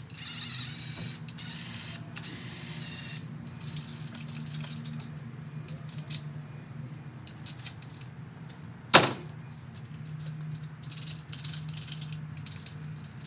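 Tools working on a Honda F22C engine during teardown: a power tool whirs for the first few seconds, then scattered metal clicks and clinks follow, with one sharp loud knock about nine seconds in, over a steady low hum.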